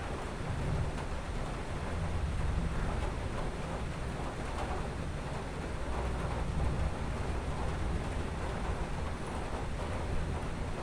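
Thunderstorm: distant thunder rumbling low and continuously, swelling and fading, under a steady hiss of rain.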